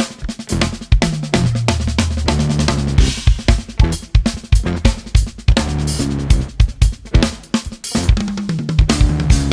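Instrumental band music with the drum kit to the fore: busy kick, snare, hi-hat and cymbal hits over sustained low bass notes.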